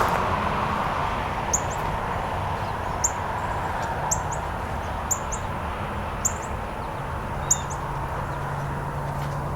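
Northern cardinal chip notes: sharp, high ticks repeated about once a second over a steady background hum.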